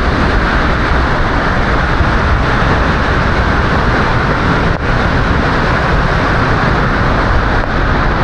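Waterfall close by: a loud, steady rush of falling water with a deep rumble underneath.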